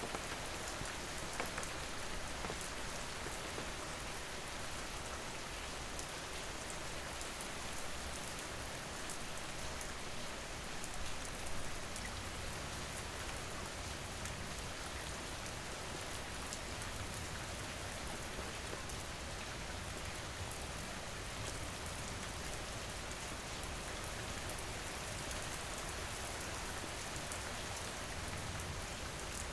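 Steady rain falling: an even hiss of drops with scattered sharper drop ticks throughout.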